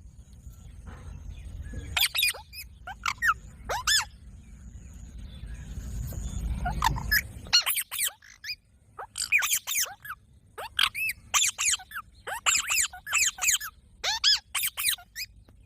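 Green parrot giving short, sharp squawks in quick runs of two to four. A low rumble underneath builds through the first half and cuts off suddenly about seven and a half seconds in.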